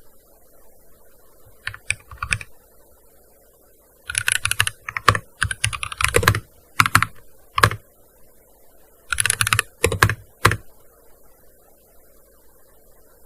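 Typing on a gaming keyboard: a short flurry of key clicks about two seconds in, a longer run from about four to eight seconds, and another short run around nine to ten seconds, with pauses between.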